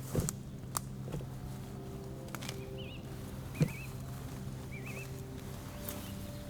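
Forest ambience with a few short, wavering bird chirps and several sharp clicks, the loudest about three and a half seconds in, over a low steady hum.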